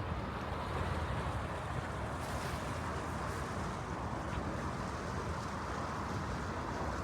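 Floodwater rushing steadily, with wind rumbling on the microphone.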